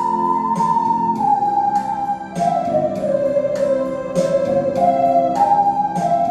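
A group of ocarinas playing a slow melody together, holding each note for about half a second to a second, over a keyboard accompaniment with a steady beat.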